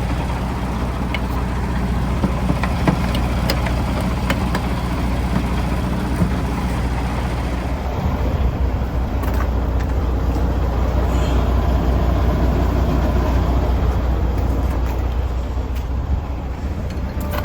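Semi truck's diesel engine running steadily, with occasional light clicks; the engine sound shifts about eight seconds in.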